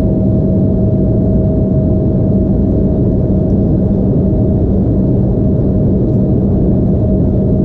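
Jet engines and airflow heard inside the cabin of an Embraer E175 airliner, a steady loud noise with a steady hum underneath.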